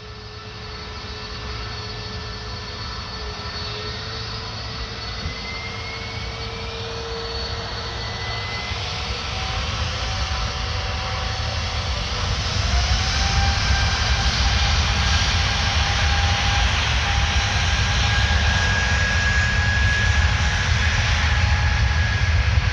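Airbus A320's jet engines spooling up to takeoff thrust from a standstill, at the start of the takeoff roll. A deep rumble with whining tones that climb in pitch grows steadily louder, settling into a loud, steady roar about halfway through.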